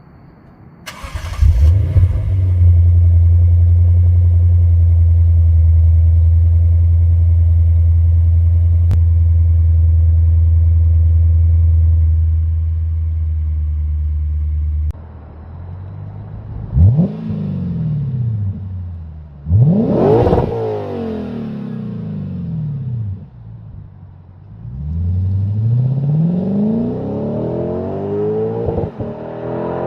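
Lexus IS 500's 5.0-litre V8 through a Remark axle-back exhaust, cranking and catching about a second in, then holding a deep, steady fast idle on a cold start. About fifteen seconds in the idle drops, and two quick revs follow, each rising and falling sharply. Near the end the engine pitch climbs steadily under hard acceleration.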